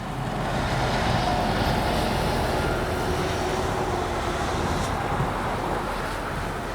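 Airbus A330-343's Rolls-Royce Trent 700 turbofan engines running: a steady rush of jet noise with faint whining tones, swelling about a second in and easing slightly near the end.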